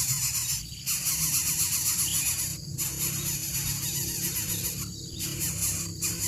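Coucal (bubut) calling under a heavy steady hiss, with brief dropouts every second or two.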